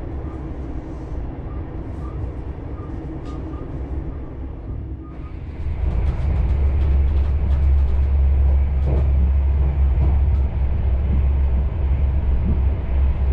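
A passenger train running at speed, heard from inside the carriage: a steady rumble of wheels on the track. About five seconds in it becomes louder, with a heavy deep rumble that continues.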